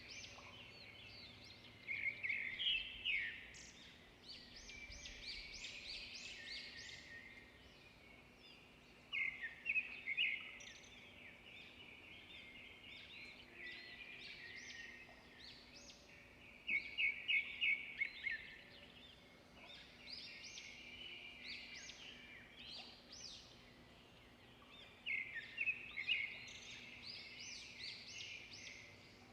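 Songbirds singing and chirping, with loud phrases of rapid repeated notes breaking out every seven or eight seconds over steady quieter twittering.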